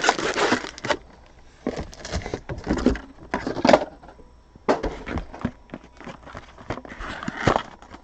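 Packaging being handled: plastic or foil crinkling and rustling in irregular bursts, with short pauses between them.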